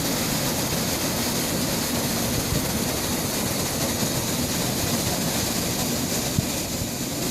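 Steady rushing roar of falling water from a waterfall, even and unbroken.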